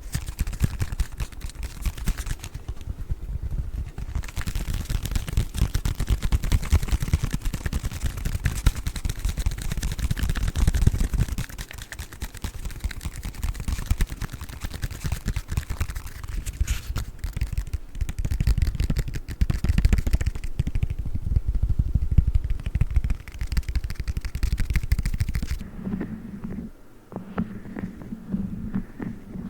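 Dense, fast tapping and scratching on a 'chocolate book' ASMR object held close to the microphone, with a heavy low rumble under it. About 25 seconds in the scratching drops away and a steady low hum sets in, with a few clicks over it.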